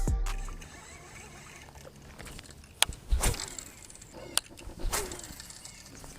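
Background music with drums fading out, then a few scattered knocks and clicks, with the loudest about three seconds in.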